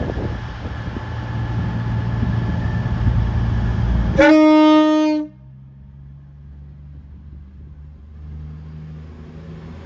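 Train rumbling loudly, the noise building, then a train horn sounding once for about a second, a single steady note. After it the rumble stops suddenly, leaving a quieter low engine hum.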